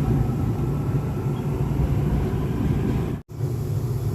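Seoul Line 5 subway train running, heard from inside the car: a steady low rumble of wheels and traction motors. The sound cuts out for a split second about three seconds in.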